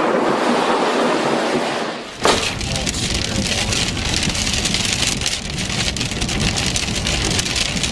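Thunderstorm with heavy rain: a sharp crack of thunder about two seconds in, then a dense patter of rain over a low rumble.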